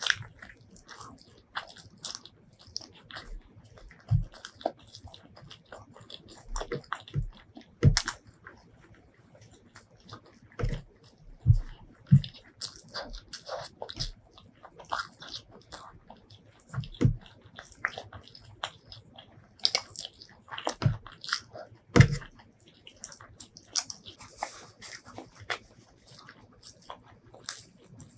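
Close-miked chewing of chicken biryani rice eaten by hand: an irregular run of wet mouth clicks and smacks, with a few louder bites standing out.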